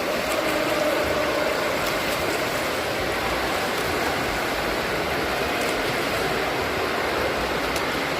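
Steady rushing and splashing water noise of a swimming pool, as swimmers churn the water.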